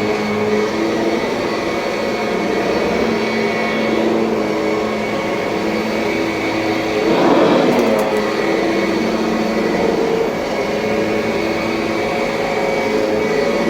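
2007 Kirby Sentria upright vacuum cleaner running steadily, a motor whine with several held tones over a rush of air. The air rush swells briefly louder about seven seconds in.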